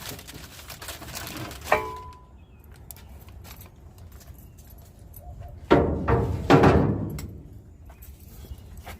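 Wrench and socket working a stubborn spark plug out of a 1965 Mustang engine's cylinder head: metal clicks, a short ringing clink, and a louder stretch lasting about a second and a half, about six seconds in. The owner suspects the plug's threads are stripped.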